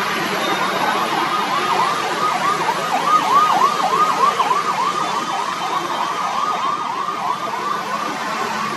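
An emergency vehicle's siren in fast yelp mode, rising and falling about three times a second. It grows louder toward the middle and then fades, over the steady hum of a congested road's traffic.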